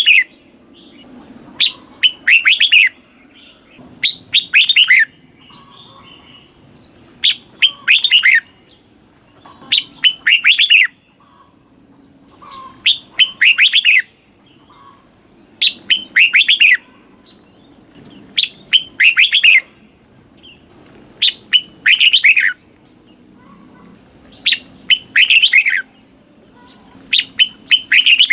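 Red-whiskered bulbul singing short, loud phrases of quick falling whistled notes, repeated every two to three seconds.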